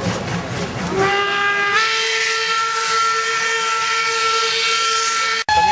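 Steam locomotive whistle blowing one long chord over a hiss of escaping steam. It starts about a second in and its pitch steps up slightly shortly after. Near the end it cuts off abruptly and a higher whistle tone follows.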